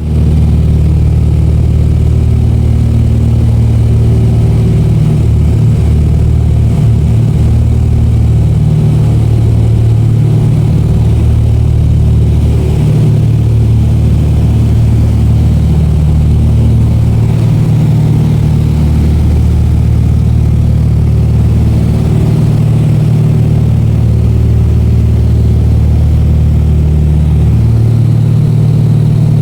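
Cabin drone of a turboprop airliner in flight: a loud, steady low propeller and engine hum with airflow noise, its low tones swelling and fading every few seconds.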